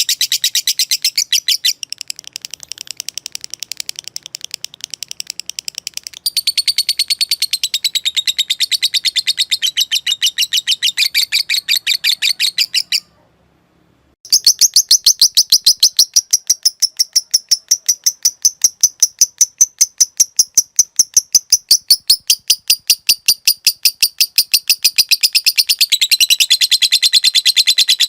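Lovebird giving its long 'ngekek' chatter: a fast, even run of sharp, high chirps. The run goes quieter for a few seconds early on, stops for about a second near the middle, then comes back louder.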